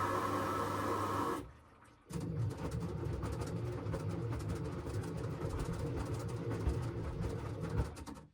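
LG front-loading washing machine running: a steady motor hum with a whine cuts out about a second and a half in, and after a short pause a rougher, rumbling churn starts and runs until it cuts off suddenly near the end.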